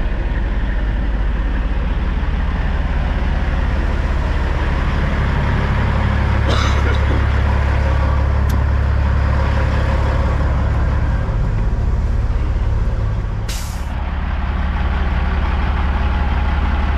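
Peterbilt 379 semi truck's diesel engine running with a steady low drone while backing a trailer. Two short air-brake hisses come about a third of the way in and again near three quarters of the way.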